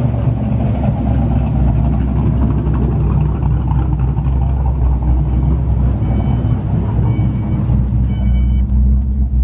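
A cammed 1993 Mustang GT's 5.0 (302) V8, with a B303 cam and GT40 heads, idling with a deep, steady exhaust rumble. From about six seconds in, the car's door-open warning chime beeps repeatedly, about once a second, over the idle.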